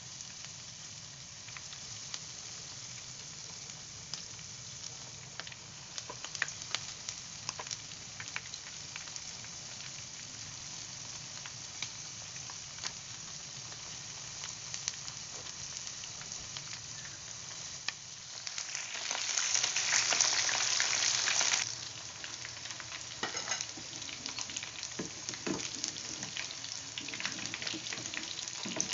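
Battered chicken pieces deep-frying in hot oil in a nonstick pan: a steady sizzle dotted with pops and crackles. About two-thirds through the sizzle swells louder for a few seconds, and later sharper knocks and crackles join in as the pieces are stirred and scooped out with a metal strainer.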